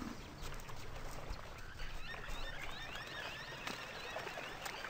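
Faint natural ambience with small bird chirps from about two to four seconds in, and scattered light ticks and clicks.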